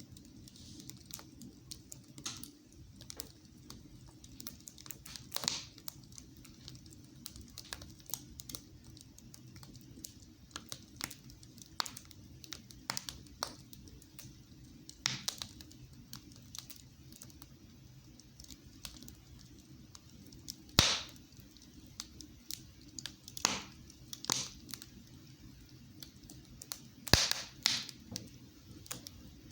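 Wood fire crackling in a fireplace: irregular snaps and pops over a low steady background, with a few louder pops later on.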